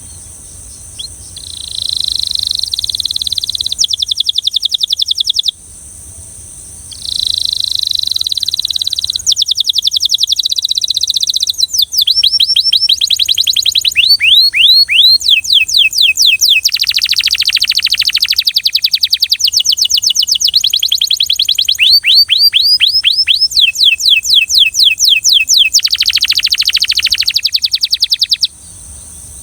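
Belgian canary singing a long song of rapid trills, each made of fast repeated notes. Each trill holds for a second or two before the bird switches to a new note type. There is a brief pause about six seconds in, and the song stops shortly before the end.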